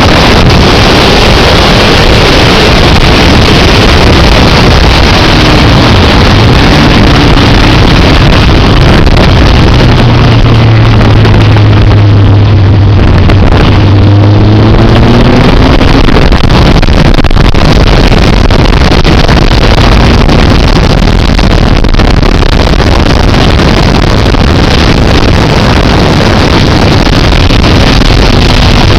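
Motorcycle running at speed under loud, constant wind rush on the microphone. The engine note comes through more clearly about a third of the way in, rising and falling in pitch for a few seconds.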